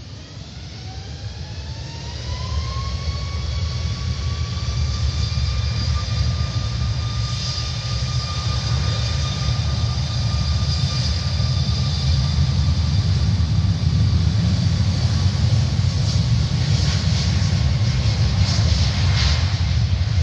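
Jet airliner's engines spooling up, as for a takeoff run. A whine rises in pitch over the first few seconds and then holds steady, over a loud low rumble that keeps growing louder.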